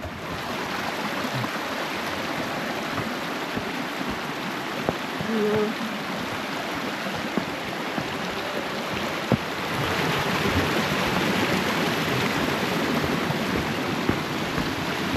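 Mountain stream rushing over rocks, a steady hiss of running water that grows a little louder about ten seconds in.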